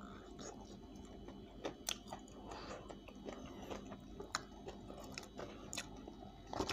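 A person chewing and biting crispy spicy fried chicken, with scattered small clicks and crunches.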